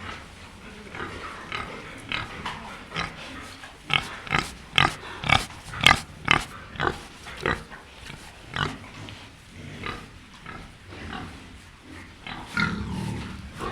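Pigs squealing and grunting in a run of short, sharp cries, loudest and coming about twice a second through the middle stretch.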